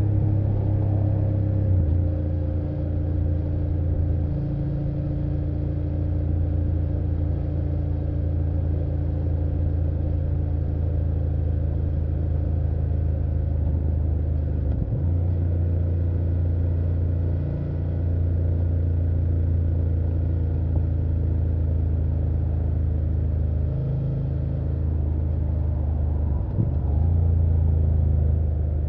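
BMW F800GS parallel-twin engine running under way, recorded from on board: a steady engine note whose pitch steps up or down a few times as the rider changes throttle or gear.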